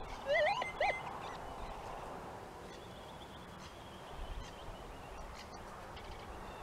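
A bird calling: two short warbling notes that rise in pitch, about half a second in.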